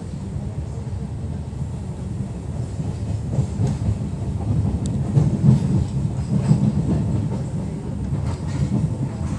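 Passenger train running, heard from inside the carriage: a steady low rumble, louder in the middle, with a few knocks as the wheels pass over rail joints and points.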